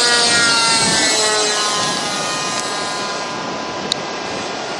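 Radio-controlled model airplane's engine buzzing as it flies past, its pitch dropping over the first two seconds and then holding steady, under wind noise. A single sharp click comes near four seconds in.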